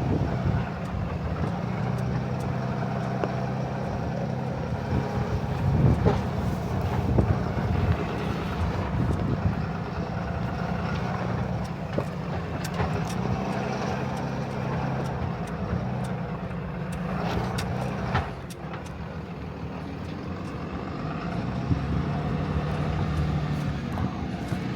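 A Ram tow truck's Cummins diesel engine runs steadily under load while crawling up a rough, steep trail. Scattered knocks and rattles come from bumps over the terrain, several around six to eight seconds in and again near eighteen seconds.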